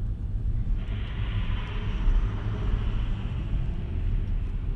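Truck running on the road, heard from inside the cab: a steady low rumble, with a hiss coming in about a second in.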